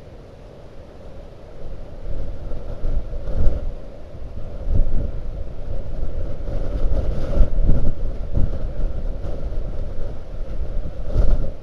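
Blizzard wind gusting against the microphone: a rough low rumble that picks up about two seconds in and then surges and buffets in uneven gusts.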